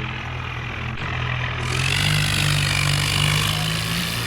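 Heavy diesel engine running steadily under load, its note rising a little about two seconds in.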